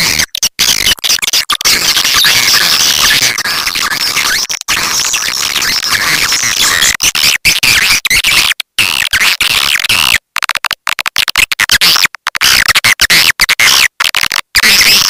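Swiftlet lure-call recording of the 'walet petir' type: loud, dense, shrill twittering of many swiftlets packed together, repeatedly broken by abrupt split-second cut-outs.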